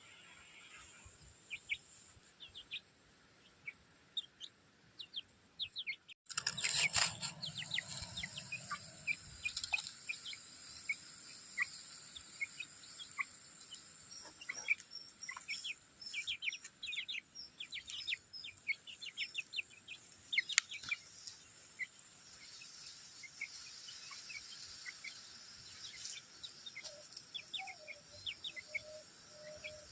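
Aseel chicks peeping: many short, high, falling chirps, which grow busier after a brief loud noise about six seconds in. Near the end comes a lower repeated call.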